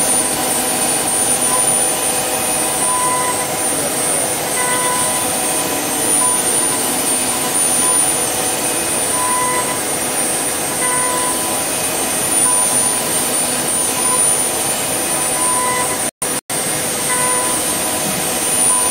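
CNC wood lathe running its finishing pass with a 6 mm ball-nose cutter: a steady machine noise with a constant whine of the spindle and drives. The sound cuts out twice for an instant near the end.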